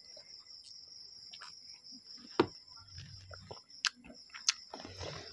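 Close-up eating sounds of a person chewing chow mein noodles: wet mouth smacks and sharp clicks, the loudest about halfway through. Under them runs a steady high trill of crickets.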